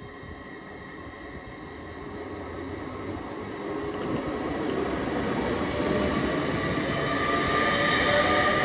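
Great Western Railway Class 800 train departing, growing steadily louder as it gathers pace, with a steady high whine above its running noise.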